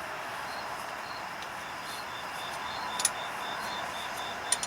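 Cricket chirping in a fast, even pulse, about four chirps a second, over a steady hiss, with two sharp clicks about three and four and a half seconds in.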